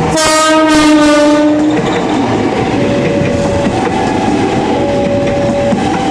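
A KRL Commuter Line 205-series electric train sounds one horn blast of about a second and a half as it comes by, then its cars and wheels rumble past close up. Through it a level-crossing alarm keeps alternating between two tones.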